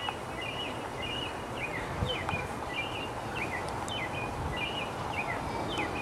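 A songbird calling over and over in short chirps, about three a second, some flat and some sliding down in pitch, over a steady outdoor background hiss.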